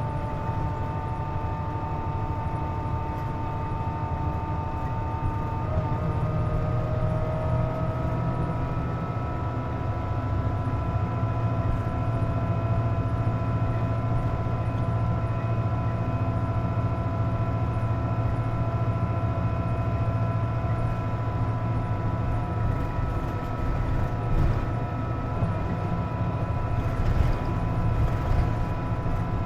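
Inside a Hino KC-JP250NTN bus underway: steady engine rumble with a whine in several tones over it, one tone shifting up about six seconds in. The uploader calls this bus an unusual-noise (異音) bus and ties the noise to the air conditioning (cooling) running.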